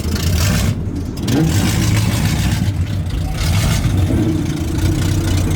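Chevrolet Monte Carlo SS V8 engines running with a steady, deep exhaust rumble.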